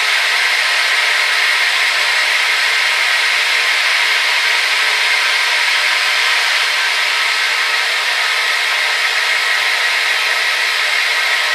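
Hair dryer running steadily: an even, loud rushing of air with a faint motor whine, unchanging throughout.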